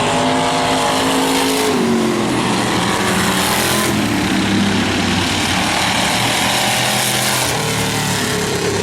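Engines of several demolition race cars running hard together, their pitch rising and falling as they accelerate and pass.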